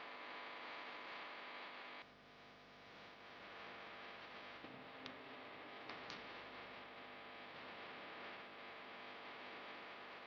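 Faint steady hiss and electrical hum, with a few short sharp clicks a little past halfway.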